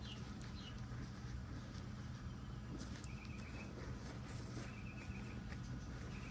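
Short, high chirping trills, three of them about a second and a half apart, over a steady low hum.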